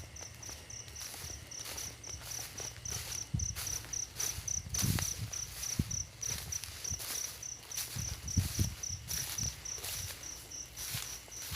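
An insect chirping in a steady, evenly pulsed high trill, about three to four pulses a second. Under it are irregular rustles and low thuds.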